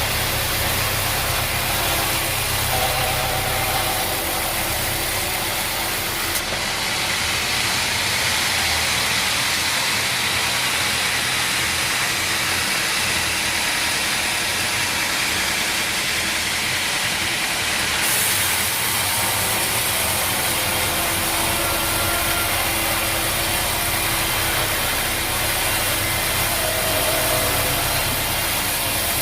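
Sawmill machinery running steadily, a continuous engine-like drone with hiss. Its character changes from about six seconds in until about eighteen seconds, with less low rumble, then returns.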